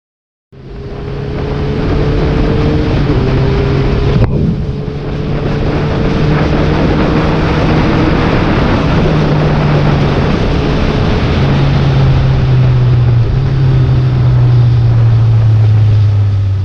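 Honda CBR650F's inline-four engine with an Arrow full-system exhaust running under way, heard through a GoPro's stock mic with heavy wind rush over it. The engine tone holds steady, then shifts in steps, with a brief dip about four seconds in.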